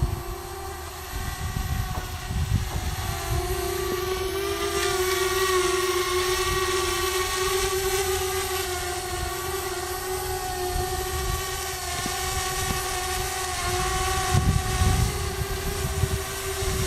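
Parrot Bebop quadcopter's propellers whining steadily in flight, the pitch wavering slightly up and down, with a low, uneven rumble underneath.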